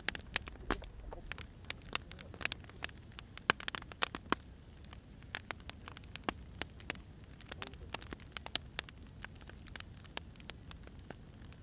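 Firewood burning: irregular sharp snaps and pops, several a second, over a low steady hiss. The loudest pop comes about three and a half seconds in.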